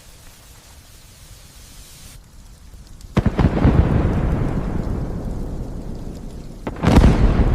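Light rain hissing, then a sudden clap of thunder about three seconds in that rumbles deep and slowly fades, followed near the end by a second loud crack of thunder.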